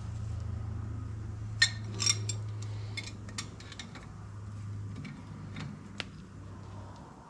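Sharp metal clinks and ticks of a castle nut and washer being handled and screwed by hand onto a car's front spindle. The loudest pair comes about two seconds in, with a few lighter ones scattered after. A steady low hum runs underneath and fades out near the end.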